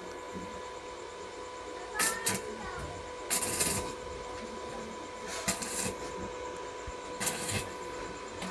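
A steady hum with four or five short bursts of hissing noise, each under a second long.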